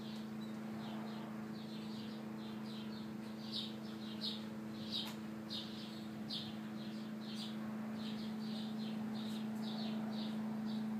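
A bird chirping over and over, short high chirps about twice a second, loudest a few seconds in, over a steady low hum.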